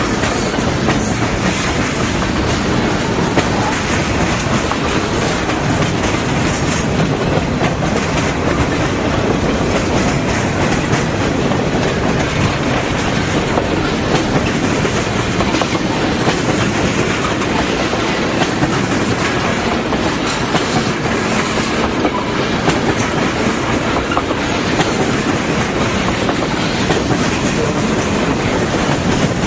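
Freight cars rolling past at a steady speed, wheels clicking over the rail joints.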